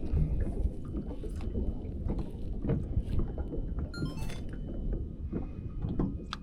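Low rumble of wind and water around a small fishing boat, with scattered light knocks and clicks of handling gear and a brief rapid clicking about four seconds in.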